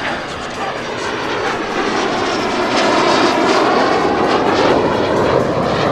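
L-39 Albatros jet flying past with its single turbofan engine running. The roar grows louder through the first half and peaks in the second, with sweeping bands of pitch as the jet passes.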